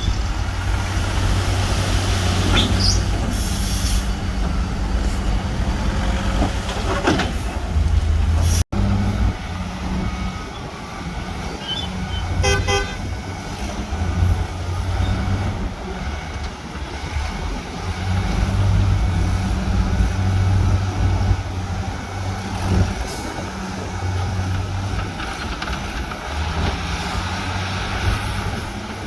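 Diesel engines of heavy earthmoving machinery running steadily, a low drone that is cut off briefly by an edit about a third of the way in. About midway a short horn toot sounds.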